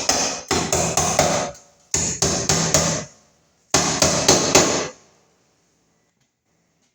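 A hammer striking repeatedly in three quick runs of blows, about four to six blows each, with short pauses between the runs.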